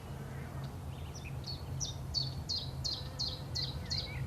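A bird singing a run of short, high notes repeated about three times a second, starting about a second in, over a steady low hum.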